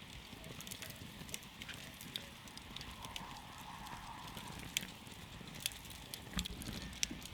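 Wood campfire crackling, with irregular sharp pops and snaps over a steady low rumble of the flames; a few pops stand out louder in the second half.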